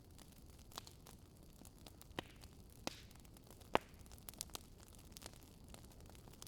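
Wood fire burning in a fireplace: irregular sharp crackles and pops over a low steady hiss, the loudest pop a little past halfway.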